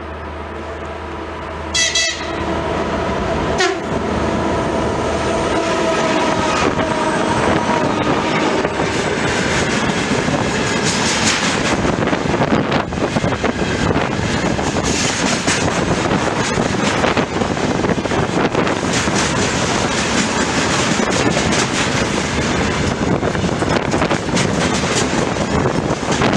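2TE116U twin-section diesel locomotive passing at speed with a freight train: a short horn signal about two seconds in, the engine's rumble and tones that sink slightly in pitch as it goes by, then the long, steady clatter of tank wagons' wheels over the rail joints.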